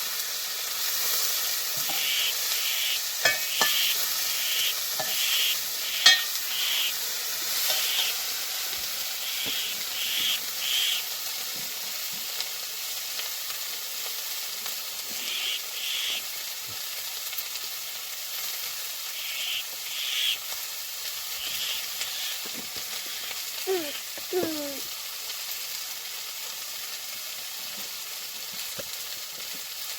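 Food sizzling in a pan while a utensil stirs and scrapes it in even strokes about twice a second, heaviest in the first third and again here and there later, with a couple of sharp clicks against the pan. A brief falling pitched call sounds about two-thirds of the way through.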